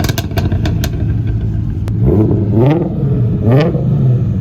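Sports car engine blipped twice over a steady idle, the revs climbing and dropping about two and three and a half seconds in, with a quick string of exhaust pops and crackles in the first second.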